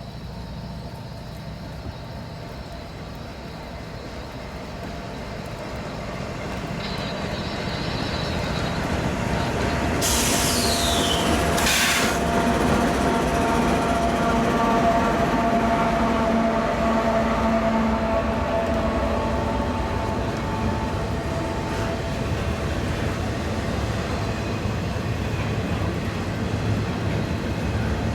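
Norfolk Southern intermodal freight train led by two diesel locomotives approaching and passing. Its rumble builds over the first ten seconds and then stays loud as the train rolls by. About ten seconds in there is a short sharp hiss, followed by several steady tones over the rumble that last for about eight seconds.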